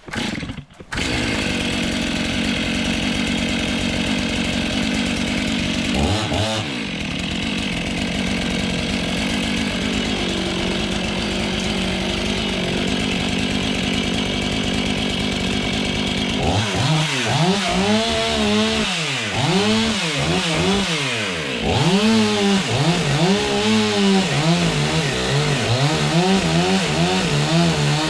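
Two-stroke chainsaw held at full throttle in a steady felling cut through a pine trunk for about fifteen seconds, briefly rising in pitch once. After that the engine revs up and down over and over, its pitch rising and falling about once a second.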